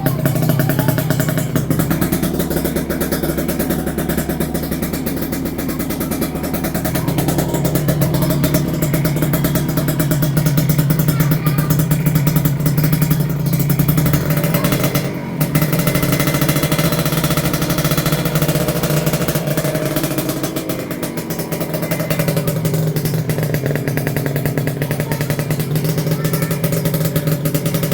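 Kawasaki Ninja 150 RR SE's two-stroke single-cylinder engine running through a super-crisp exhaust, with a rapid crackling firing note whose pitch and level shift a few times.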